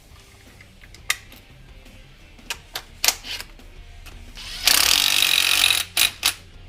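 Scattered clicks and clinks of metal parts being handled, then a power tool running in one loud burst of about a second, followed by two more clicks.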